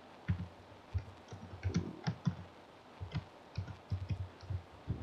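Computer keyboard typing: a run of irregular keystrokes, several a second, as text is entered.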